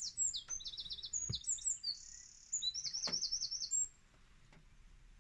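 A small bird singing a fast, high song of rapid repeated notes and trills, stopping about four seconds in.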